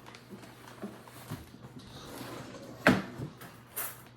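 Kitchen handling noise: a few faint taps, then one sharp knock about three seconds in.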